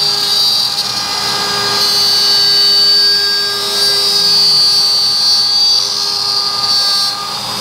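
CNC router spindle running with a steady high whine as it cuts wood, the level wavering slightly as the cut goes on.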